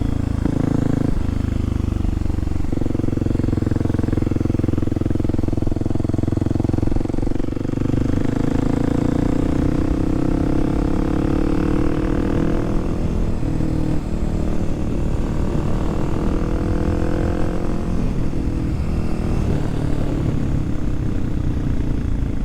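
Kawasaki KLX300SM's single-cylinder four-stroke engine running under way. Its note steps down twice in the first few seconds, then rises and falls gently with the throttle.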